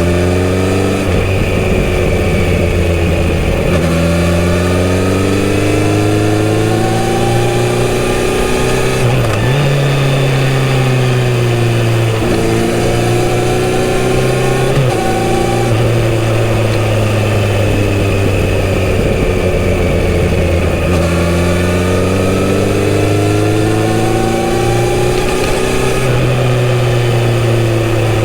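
Kawasaki Z900RS inline-four engine through a full-system exhaust while riding: the revs climb in several pulls, dropping at each upshift every few seconds, with a steadier cruise in the middle.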